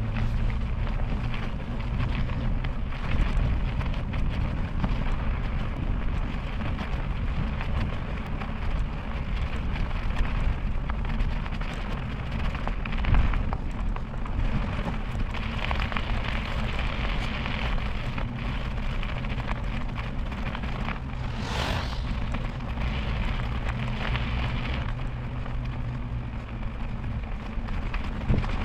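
Steady wind rumble on the microphone and tyre hiss from a bicycle riding on a wet road. A brief whoosh comes about three-quarters of the way through.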